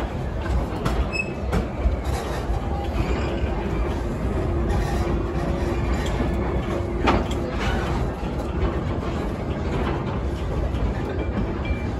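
Park railway train rolling along the track, heard from aboard: a steady low rumble of the passenger cars with occasional short knocks from the wheels and couplings.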